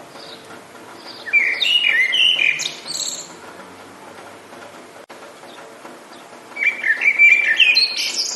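A songbird singing two loud phrases of quick chirping, sweeping notes, about five seconds apart, over a faint steady background hiss.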